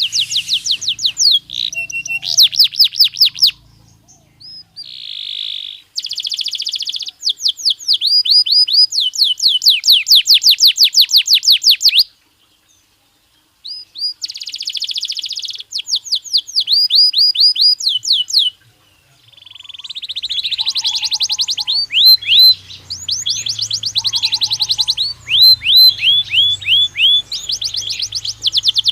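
Domestic canary (Belgian canary) singing: fast trills of rapidly repeated high, downward-sweeping notes, several rolls in a row, broken by a few short pauses and one brief silence a little before the middle.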